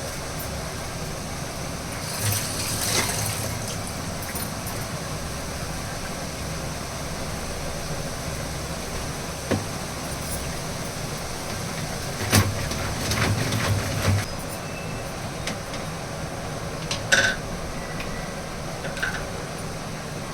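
Kitchen sounds during cooking: a few scattered knocks and clinks of utensils over a steady background hum, with a small cluster of clatters about two-thirds of the way through.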